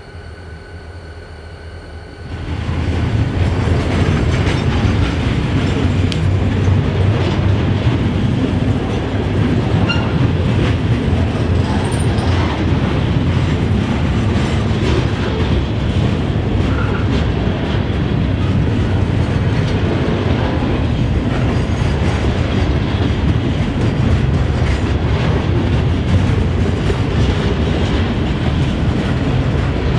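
Freight train of loaded stone hopper cars rolling past: a steady heavy rumble with wheels clacking over rail joints, starting abruptly about two seconds in. Before that, a drone's propeller whine.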